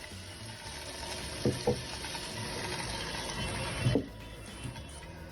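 Suction fan of a homemade robot vacuum cleaner running with a steady hiss, which drops away about four seconds in. A few short low knocks come during it.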